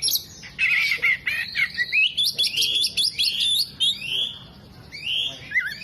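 Oriental magpie-robin singing a fast, varied song of chirps, trills and slurred whistles, with mimicked phrases of other birds worked in.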